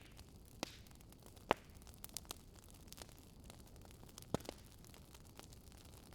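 Wood fire crackling: irregular sharp pops and snaps over a faint steady hiss, the loudest pop about a second and a half in.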